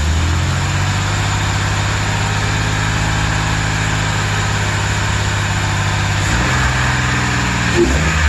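Chevrolet Express van's engine idling steadily, its note shifting slightly about six seconds in.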